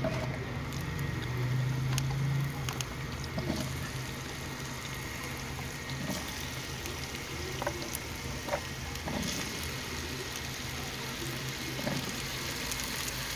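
Diced potatoes sizzling as they fry in hot ghee in a non-stick pan, a steady hiss with scattered soft ticks as more cubes are set down in the pan.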